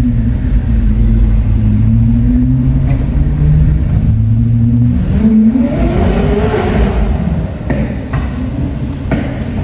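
Koenigsegg Jesko's twin-turbo V8 running at a steady pitch, then revving up in a rising sweep about five to seven seconds in.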